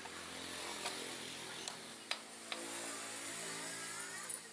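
Motorcycle engine running steadily, with several sharp clicks over it.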